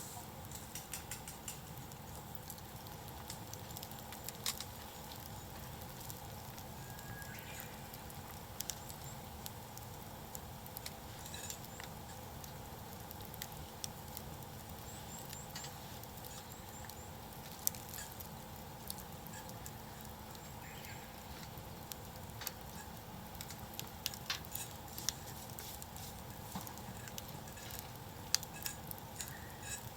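Wood campfire crackling: irregular pops and snaps, a few louder ones, over a low steady hiss.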